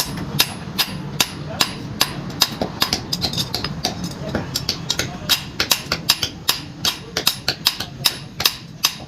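Hammer blows on hot iron on an anvil, about two to three strikes a second with lighter taps between, as a pickaxe head is forged. A steady low hum runs underneath.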